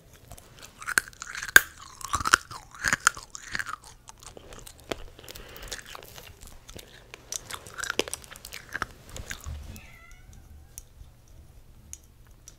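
Close-miked chewing and crunching of something crisp, loudest and densest in the first few seconds, then softer chewing that dies away near the end.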